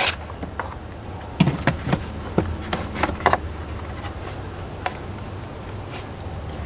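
Ratchet wrench and socket on extensions clicking and clinking in short, irregular ticks while a screw on the air filter box is undone, over a steady low hum.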